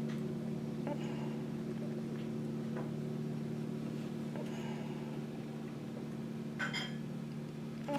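Tractor engine running with a steady hum. A few faint clicks sound over it, and a brief sharper rattle comes about two-thirds of the way through.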